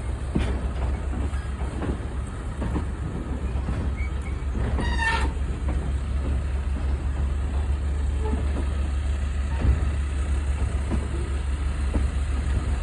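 Riding aboard a small heritage train: wheels clicking over rail joints at an irregular pace, under a heavy low rumble of wind on the microphone. About five seconds in comes a brief high-pitched tone.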